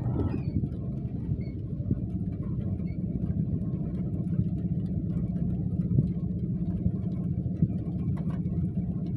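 Rain falling steadily, heard as a low, even rumble with faint scattered ticks of drops.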